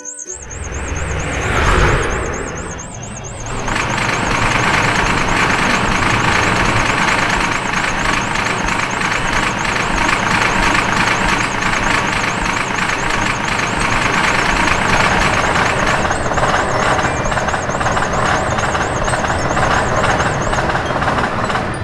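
A train passing a level crossing: a swell of noise about two seconds in, then a steady loud rumble with dense clattering of the wheels, over a high warbling tone that stops near the end.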